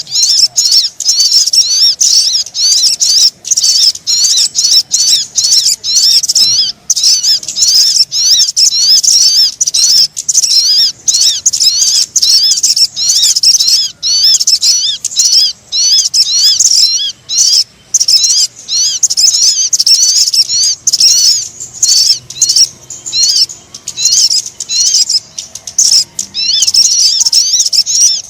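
Recorded lure call (suara pikat) of the sogon bird: a dense, almost unbroken stream of rapid, high twittering chirps, broken only by short gaps.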